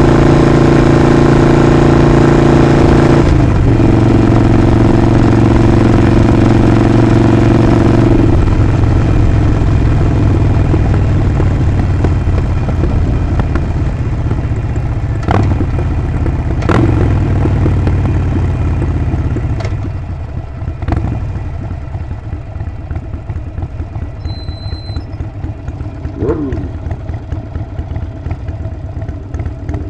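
Harley-Davidson Sportster 48's air-cooled V-twin running at a steady cruise, changing pitch with a gear change about three seconds in. From about eight seconds it slows, with a few sharp clicks, and after about twenty seconds it settles to a quieter, loping idle. A brief high beep sounds during the idle.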